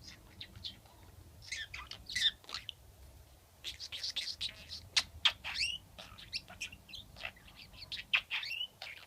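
Pet budgerigar chattering: a rapid run of short chirps, squeaks and warbling notes, busiest in the second half.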